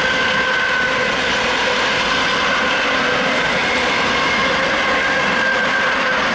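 Double-deck passenger train rolling past: steady, loud rail and wheel noise, with a few faint steady whining tones over it.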